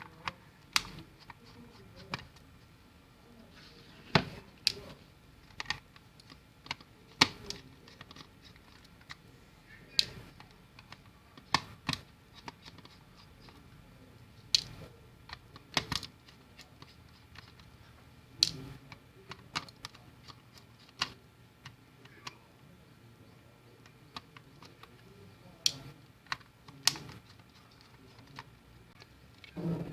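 Irregular sharp clicks and light knocks of small hard objects being handled, one every second or two, some much louder than others.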